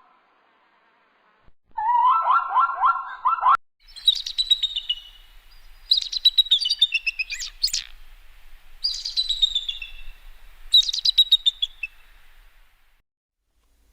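Small songbird singing, four descending trilled phrases about two seconds apart. Just before the song, a brief run of rapid, pitched calls from another animal.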